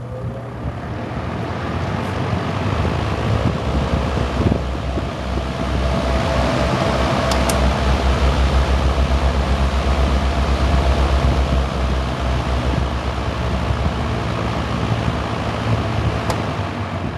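Early-1950s Lasko Executive box fan with a Westinghouse motor, running in reverse on high speed. A rush of moving air builds over the first several seconds, then holds steady with a low, fluttering rumble before easing slightly near the end.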